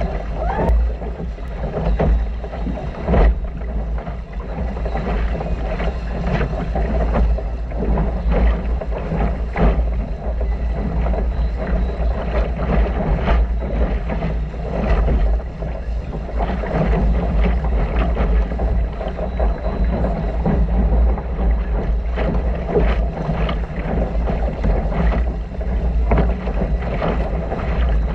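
Wind buffeting the microphone aboard a small sailboat, a heavy steady rumble, with water splashing and slapping against the hull in frequent short hits.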